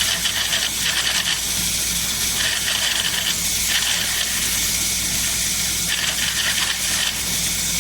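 Automatic CNC wood lathe turning a wooden handle: a steady hiss of the cutting tool in the wood, swelling and easing every second or so, over the constant low hum of the machine.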